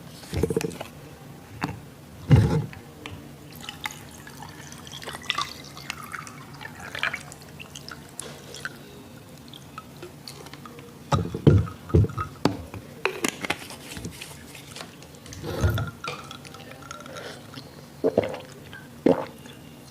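Close-miked eating of crispy fried sausages and onions: wet chewing and mouth clicks, with louder bites coming in irregular clusters several times.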